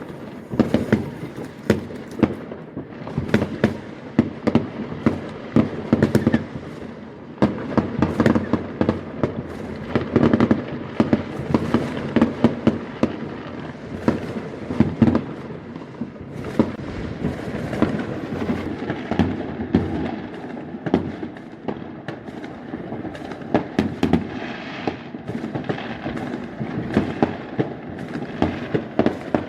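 Fireworks going off in a dense, continuous barrage: many sharp bangs and crackles per second, overlapping, over a steady rumble.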